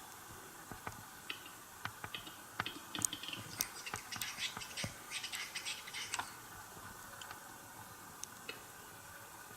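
Western capercaillie cock singing at the lek: a series of dry clicks that come closer together, then a few seconds of rapid scraping, hissing sounds (the whetting phase of the song), then scattered clicks again.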